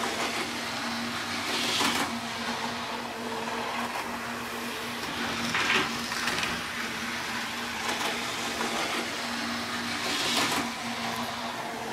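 Small electric model train running on its track: a steady motor whir and hum with wheel-on-rail rattle, swelling louder about every four seconds.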